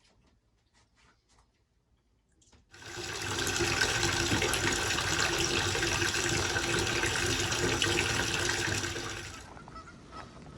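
Water running steadily from a tap, starting abruptly about three seconds in and cut off shortly before the end.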